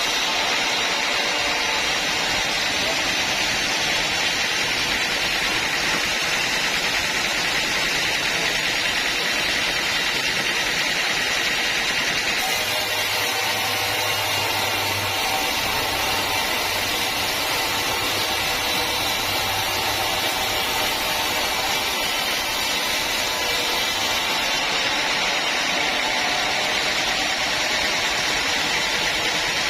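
Sawmill saw running steadily as it cuts through a teak log, a continuous loud mechanical noise, with a low hum joining for several seconds about halfway through.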